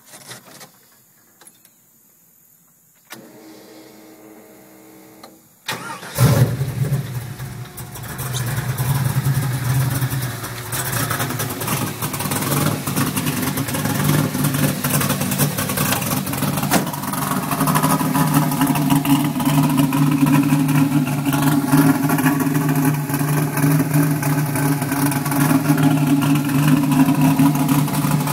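Small clicks and a faint steady hum after the key is turned, then a 1966 Chevy Nova's swapped-in 6.0-litre LS2 V8 cranks and fires about six seconds in and keeps running steadily at idle.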